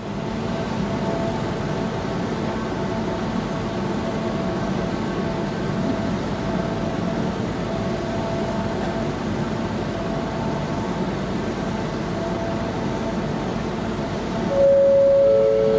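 Steady ship machinery rumble and hum with several held tones underneath. Near the end come two loud held notes, the second lower than the first.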